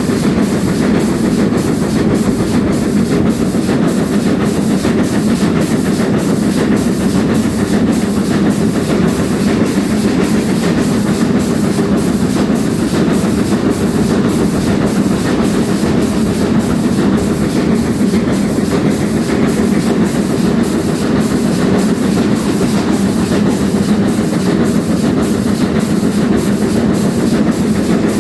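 Train hauled by the GWR Castle-class steam locomotive 4079 Pendennis Castle running steadily: a loud, continuous rumble with an even, repeating beat.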